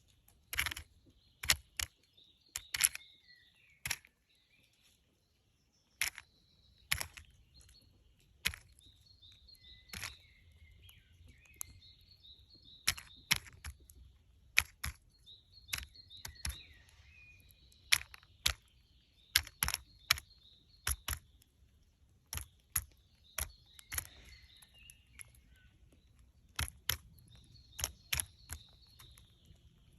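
Woodpecker pecking at a walnut: irregular sharp taps, often two or three in quick succession, with pauses between runs. Faint bird chirps are heard between the taps.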